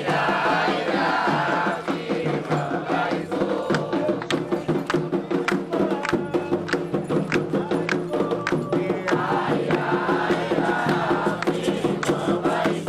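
Candomblé ritual music: percussion strikes keeping a steady, quick beat under a group of voices chanting, with the singing strongest at the start and again towards the end.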